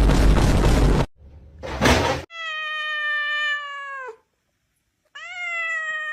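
A cat meowing: two long, drawn-out meows. The first comes about two seconds in, holds its pitch and drops at the end; the second, near the end, rises quickly and then slides slowly down. Before them, a loud rushing noise fills the first second, then a short burst of noise.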